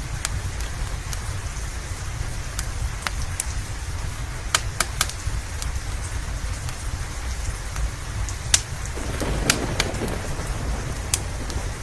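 Steady rain over a low rumble, with a wood fire crackling: sharp pops scattered throughout, several in quick succession about four and a half seconds in. A brief swell of low rumbling comes about nine seconds in.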